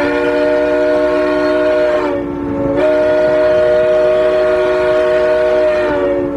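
Locomotive air horn sounding a long, loud chord of several steady notes, sagging briefly in pitch and level about two seconds in and again near the end.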